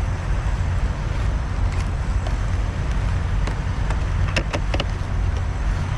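A vehicle engine running with a steady low rumble. A few short clicks come about four and a half seconds in.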